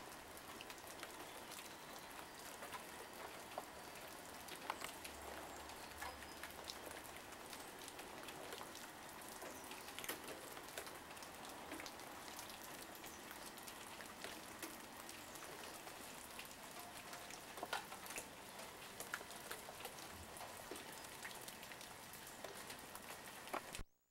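Falling snow in a snowstorm, pattering faintly on surfaces: a steady hiss dotted with many small ticks, which cuts off abruptly near the end.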